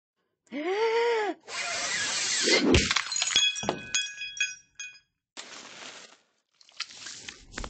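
A short rising-and-falling cry, then a rushing clatter and a knock, after which hard objects clink and ring with several clear tones for about a second and a half, like things being knocked over and rattling.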